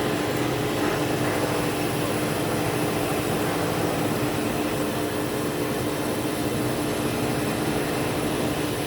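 Metal lathe running steadily under automatic feed, taking the finishing cut on a nut's outside diameter: an even machine hum with a steady tone.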